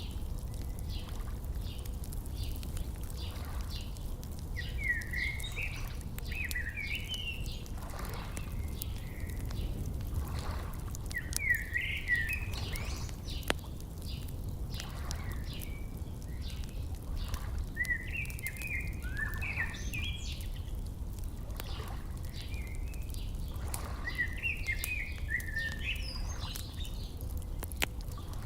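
Wood fire crackling with scattered sharp pops, while a songbird sings short warbled phrases every few seconds over a steady low rumble.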